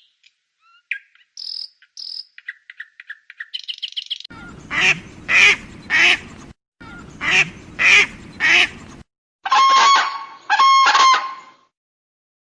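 A run of bird calls. First come quick high chirps and twitters, then two groups of four loud, harsh calls, and near the end two long calls with a clear, steady pitch.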